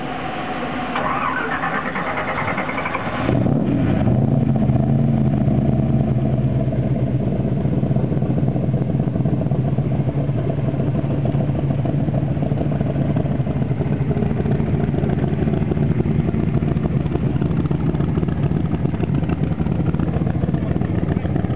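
Kirkham AC Cobra 427's V8 being started: it cranks for about two seconds with a rising whine, catches a little over three seconds in, flares briefly, then settles into a steady idle.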